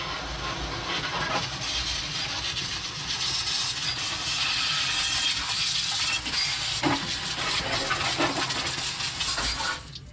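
Water spraying in a steady hiss against a car's undercarriage, washing off dirt. It cuts out briefly near the end.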